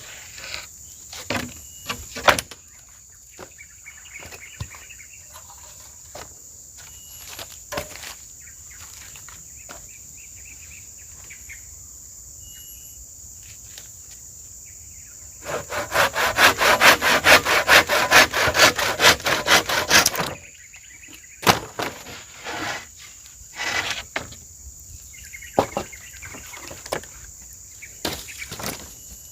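Wood being worked by hand: scattered knocks and taps, and about halfway through a fast run of strokes on wood lasting about five seconds. A steady high insect drone runs underneath.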